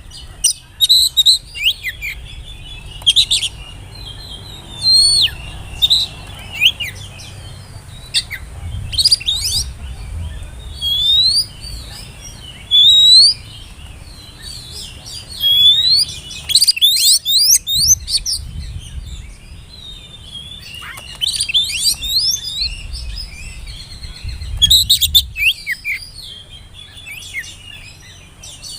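Oriental magpie-robin (kacer) singing: phrase after phrase of loud, whistled notes that slide up and down in pitch, mixed with quick chirps, with short pauses between phrases.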